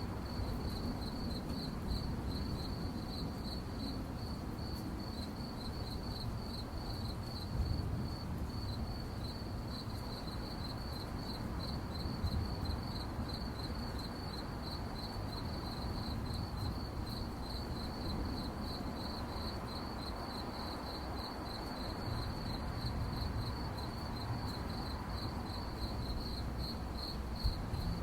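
Crickets chirping at night in a rapid, steady pulsing trill at one high pitch, over a low background rumble.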